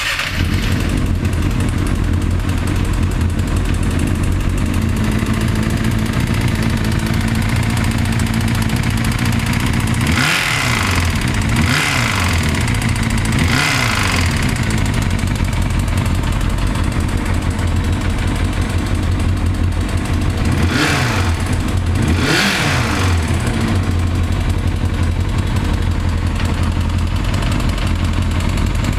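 Kawasaki Balius 250's four-cylinder engine idling steadily, blipped three times about a third of the way in and twice more about two-thirds in, each rev rising and falling quickly. It carries an abnormal engine noise that the owner suspects comes from the cam chain.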